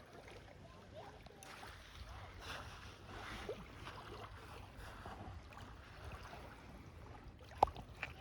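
Faint water sounds around a canoe, light splashing and lapping. A single sharp knock comes near the end.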